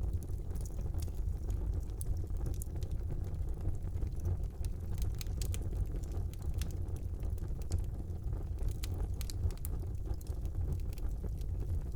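Fire burning in a brick fireplace: a steady low rumble of the flames with frequent small crackles and pops scattered throughout.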